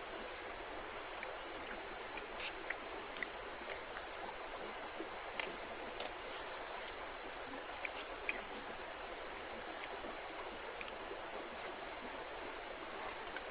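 River water flowing with a steady background rush, under a continuous high-pitched insect drone and a second insect call pulsing about once a second; a few faint clicks.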